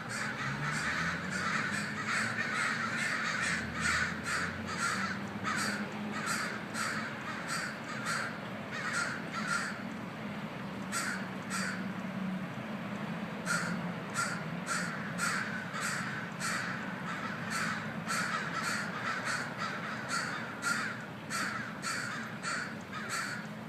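A flock of crows cawing over and over, many short calls overlapping without pause: crows freaking out at a hawk on its seagull kill, the alarm and mobbing calls crows give at a raptor.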